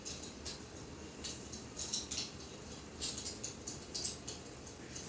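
Wood fire crackling: irregular snaps and pops over a low steady hiss.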